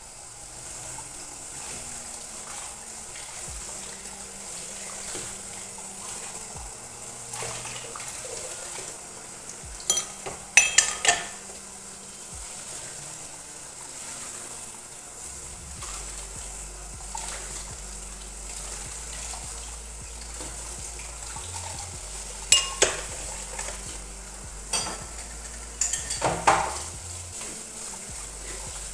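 Dishes and cutlery clattering in short bursts, once about ten seconds in and twice more in the last third, over a steady hiss: kitchen cleanup.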